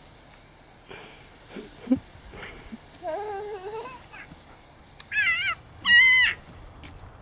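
American Bulldog whining: a lower wavering whine, then two short high-pitched whines, the last one the loudest.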